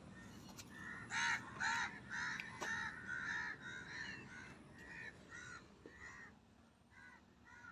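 Bird calls: a run of short, repeated calls, loudest in the first few seconds and tailing off toward the end.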